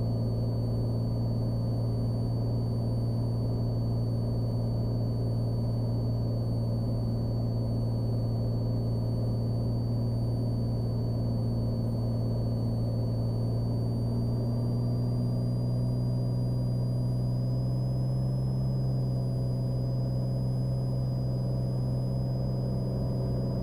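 Cessna Skylane's piston engine and propeller droning steadily in the cockpit at approach power, with a faint thin high whine that creeps slowly up in pitch. The engine note shifts slightly about two-thirds of the way through.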